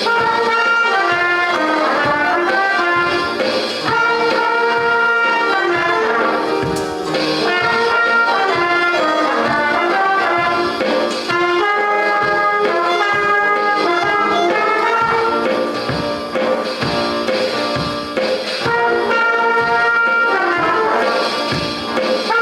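School jazz band playing, with horns carrying the melody over a steady beat.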